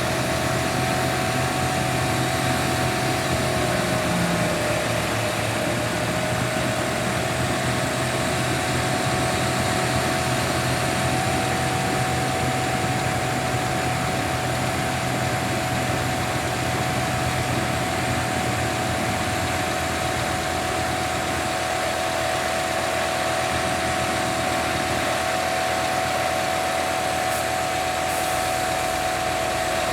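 Scania P280 crane truck's diesel engine running steadily with a constant whine, which dips briefly about four to five seconds in and then settles again.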